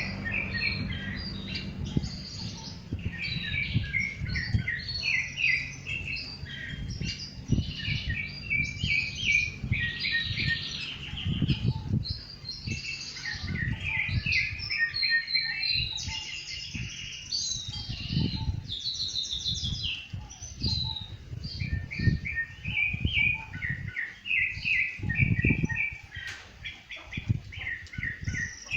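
Rufous-bellied thrush singing: a continuous run of short, varied phrases with brief gaps between them, over an intermittent low rumble.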